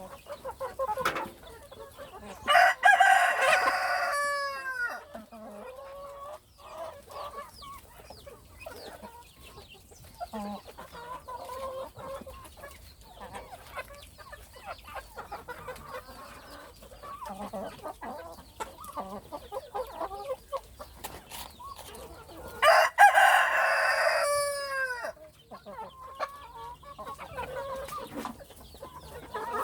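Chickens clucking continually, with a rooster crowing loudly twice, once about three seconds in and again about twenty seconds later, each crow ending in a falling tail.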